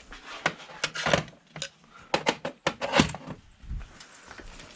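A run of short metallic clicks and knocks, about a dozen, from hand tools being handled and worked against engine parts.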